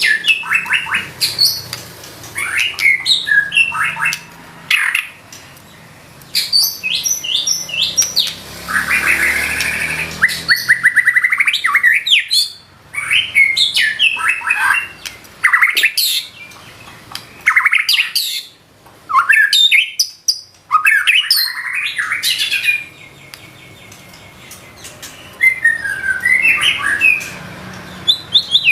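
White-rumped shama singing in loud bursts of fast, sharp whistled and chattering phrases, mixed with mimicked calls, with short pauses between phrases. About nine seconds in, it gives a fast rattling trill.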